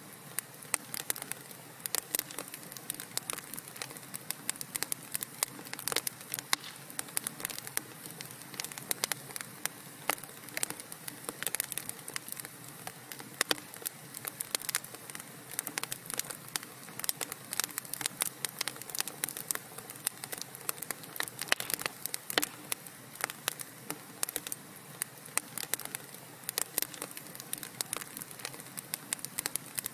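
Wood fire crackling in a fireplace: a constant, irregular run of sharp pops and snaps over a soft steady hiss.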